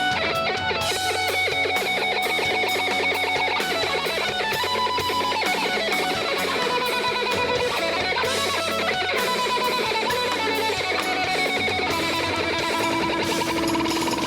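Live rock band playing an instrumental section, with electric guitar playing rapid runs of notes over bass and drums.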